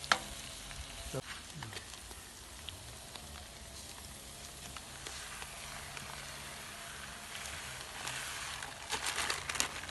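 Fried pork, carrots and onions sizzling in a kazan as boiling water goes in for the plov. There is a sharp knock just after the start and a louder crackling patch near the end.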